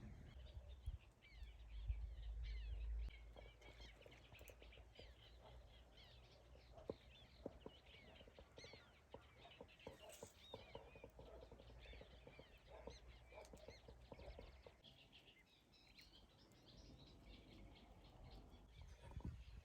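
Faint birdsong: many small birds chirping and singing at once, with a brief low rumble about two seconds in.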